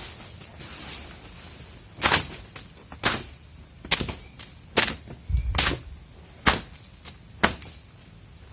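A run of sharp swishing strokes, about one a second, as dirt and debris are swept off the ground. A steady high trill of crickets runs underneath.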